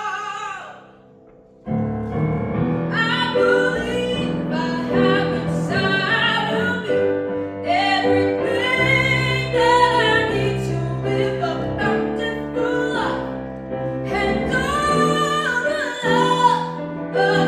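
A woman singing with piano accompaniment. A held note fades away, and after a short pause about a second and a half in, the singing and piano start again and carry on.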